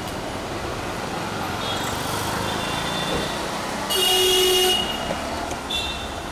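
Steady street traffic noise, with one short, loud horn blast about four seconds in.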